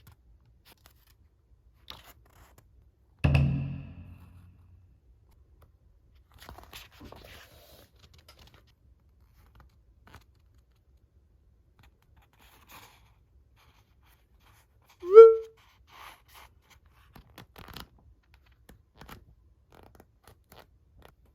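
Parcel packaging being handled and opened: faint scattered rustles and clicks, a thump about three seconds in, and a short pitched blip that bends in pitch about fifteen seconds in.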